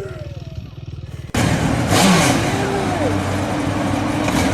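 Motorcycle engine running, with an abrupt cut about a second and a half in to louder engine and road noise. Voices are heard over it.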